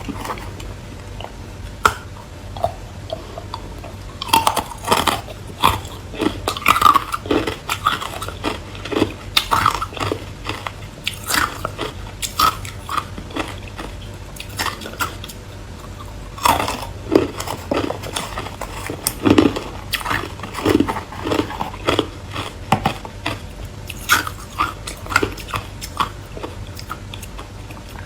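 Close-up biting and chewing of frozen ice: sharp, rapid crunches in bursts, with quieter pauses between mouthfuls.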